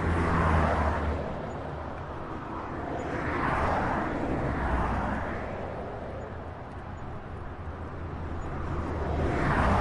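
Highway traffic: a continuous rush of tyre and engine noise, with several vehicles swelling past one after another, about four in the span, over a steady low rumble.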